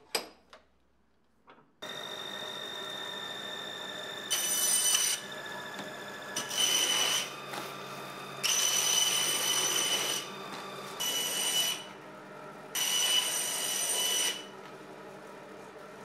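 A few clicks, then about two seconds in the repaired paper shredder starts: its motor and chain-and-sprocket drive run steadily, turning the cutters. Five times it gets louder with a high ringing, the longest spell lasting almost two seconds.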